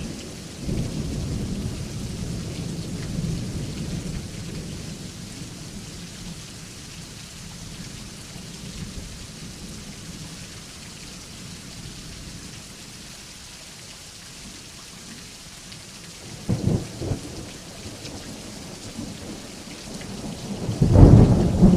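Thunderstorm: steady rain with thunder rumbling and fading over the first few seconds. A sharp thunder crack comes about three-quarters of the way through, and a loud, deep thunderclap comes near the end.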